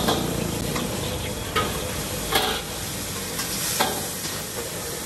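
Food frying and sizzling in a pan while a metal utensil stirs it, with a few sharp clanks of the utensil striking the pan.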